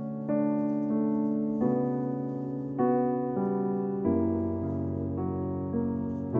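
Background piano music: slow chords, a new one struck about every second and a quarter and left to ring and fade.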